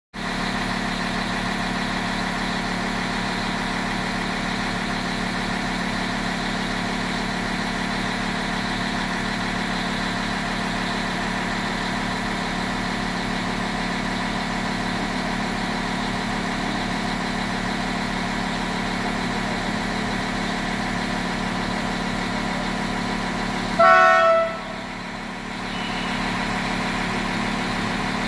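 Diesel freight locomotive engine running steadily at idle, with one short horn toot near the end, after which the engine sound drops for a couple of seconds before returning.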